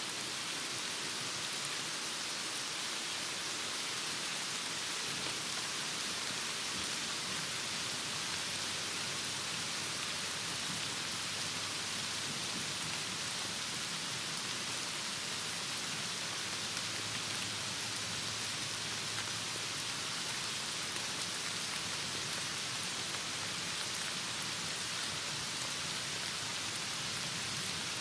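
Heavy rain falling steadily: an even hiss of rain with dense drops, no change in strength.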